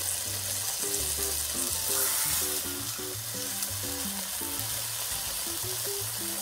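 Sliced deli turkey sizzling steadily in a frying pan as it warms and browns, with quiet background music underneath.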